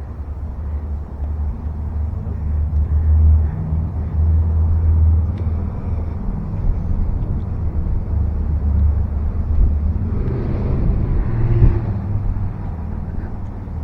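Steady low rumble of a vehicle in motion, with a louder rushing swell about ten seconds in.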